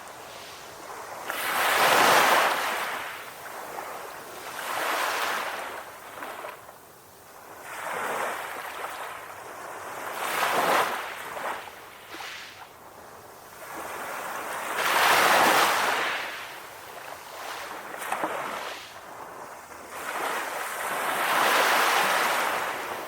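Sea waves breaking and washing up the shore, a rushing hiss that swells and falls away in repeated surges a few seconds apart.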